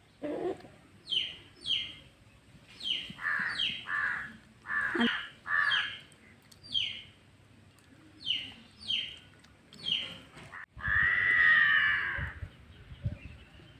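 Birds calling: a run of short falling calls, mostly in pairs, then one louder, longer call near the end.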